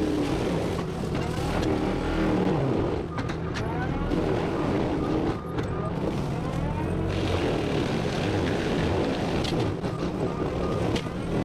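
Cat 259D compact track loader running a forestry mulcher head: the diesel engine and spinning mulching drum working steadily, their pitch rising and falling under load. The sound cuts off suddenly at the very end.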